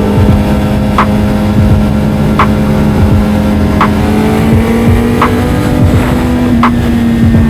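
Kawasaki Z900's inline-four engine running at a steady cruise, rising slightly in pitch near the end. A short tick comes regularly about every one and a half seconds.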